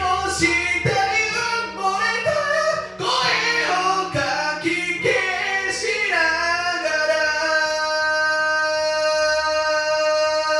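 A singer's voice over a karaoke backing track, singing a moving melodic line and then holding one long note for the last four seconds or so.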